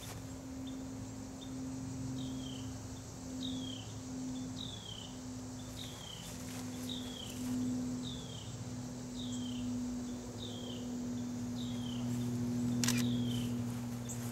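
A bird repeating a short chirp that slides down in pitch, about every two-thirds of a second, over a steady low hum. A sharp click near the end.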